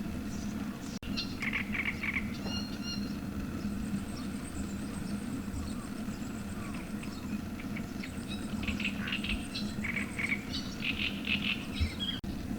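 Outdoor ambience of small birds chirping in short repeated bursts, with a thin high trill for several seconds in the middle, over a steady low hum. The sound cuts out for an instant twice.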